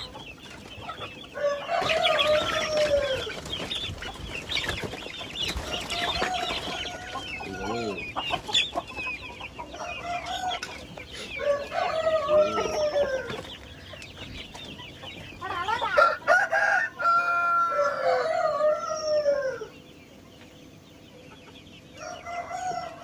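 Domestic chickens: roosters crowing again and again, about half a dozen crows, some overlapping, with clucking in between.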